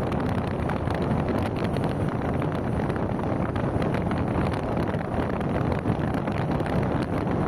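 Steady wind rush and road noise of a car driving along a highway, with wind buffeting the microphone.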